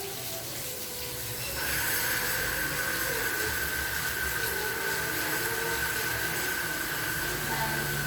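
Steady rain hiss. About a second and a half in, a steady high-pitched tone joins it and holds.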